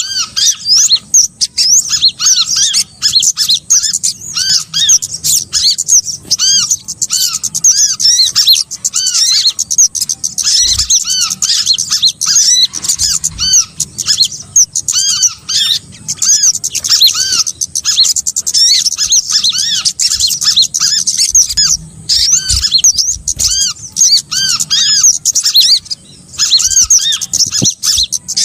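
A bird-trapping lure recording of small songbirds calling: dense, rapid, high arching chirps repeated over and over, with a few brief pauses.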